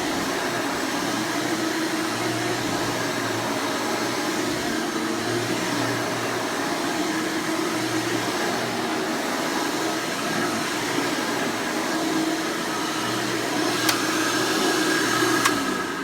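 1996 Hoover Elite Supreme U5071-930 upright vacuum running steadily, its 7.2 amp direct-air motor fitted with a replacement 20-blade fan. Two sharp clicks come near the end, and then the motor starts to wind down.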